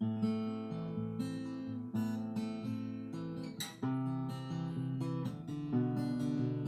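Acoustic guitar strummed, playing the chord introduction of a song, with chords changing about once a second.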